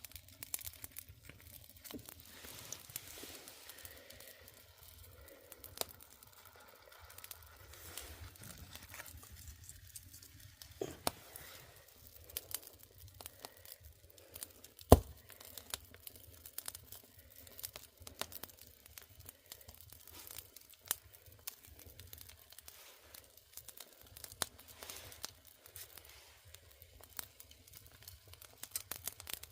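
Wood fire crackling in a firebox, with scattered small pops and snaps and one much louder pop about halfway through.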